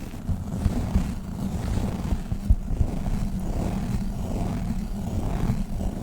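Globbles sticky gel toys squished and pulled right against the microphone, making a continuous low, crackling, squelching rumble with a few sharper pops.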